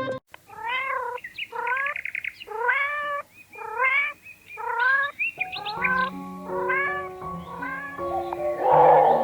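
A cat meowing repeatedly, about seven short calls that each rise in pitch. Background music comes in about halfway through, and a loud rough burst of sound rises near the end.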